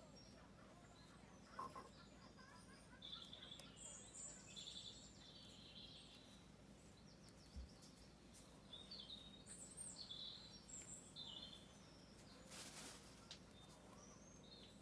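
Faint wild birdsong: many short, high chirps and trills from small songbirds, with a brief rustle near the end.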